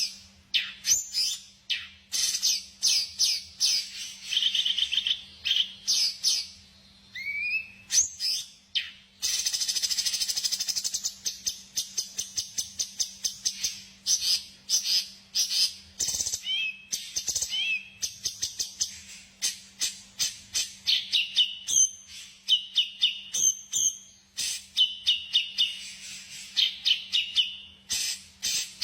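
Songbird song: fast, high chirping runs and trills in bursts a few seconds long with short pauses between, and a few gliding whistled notes.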